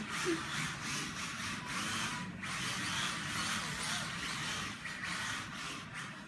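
Mini-Z RC drift cars running on the track: small electric motors whirring and tyres hissing as they slide, the whirr rising and falling.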